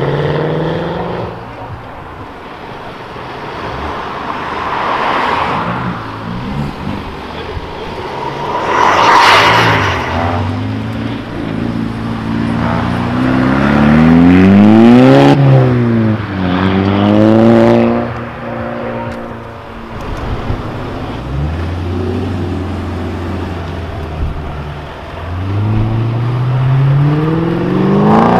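Several tuned cars driving off one after another, engines revving and rising in pitch as they accelerate past, loudest about fourteen seconds in. A short, loud hiss comes about nine seconds in.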